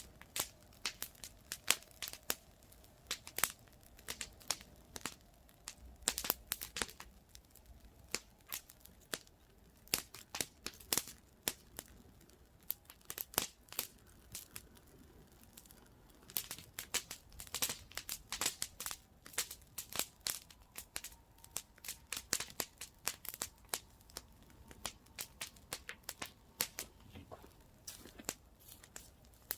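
Campfire crackling: dense, irregular sharp pops and snaps, several a second.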